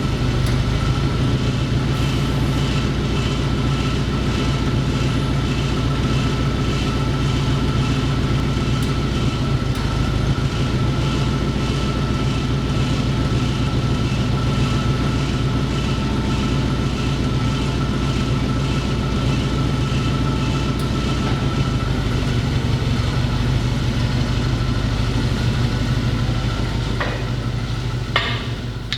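An engine running steadily for a long stretch, with a low drone and a faint steady whine above it, fading near the end.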